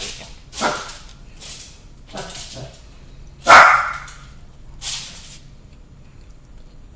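A dog barking a few times, the loudest bark about three and a half seconds in, among shorter crunching sounds of chips being chewed.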